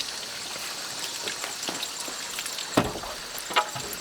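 A few scattered knocks, the loudest about three-quarters of the way through and another shortly after, over a steady high-pitched hiss.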